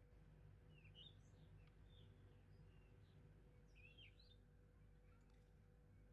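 Faint bird chirps over near-silent room tone: a few short chirps about a second in and again around four seconds in.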